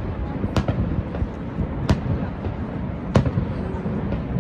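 Fireworks going off: three sharp bangs about a second and a quarter apart, over a steady background rush.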